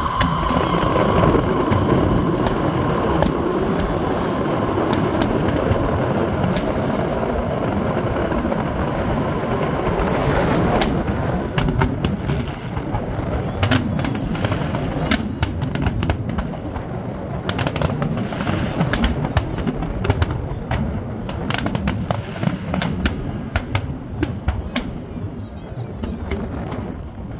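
Fireworks display going off without a break: a dense run of booms, with sharp bangs and crackles coming thicker from about ten seconds in.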